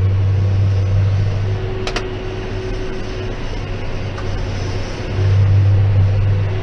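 John Deere 6190R tractor engine running steadily while pulling a Claas 3300 big square baler through straw. There is one sharp click about two seconds in, and the engine drone swells near the end.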